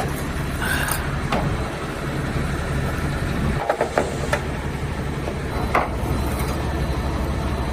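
Diesel truck engine idling steadily, with a few short clicks and knocks over it.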